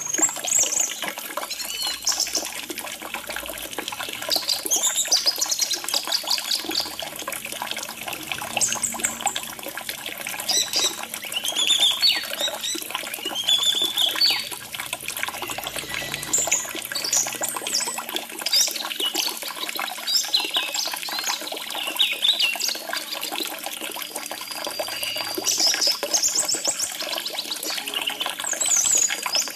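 Orange-headed thrush singing a long run of varied whistled and trilled phrases over steadily trickling water.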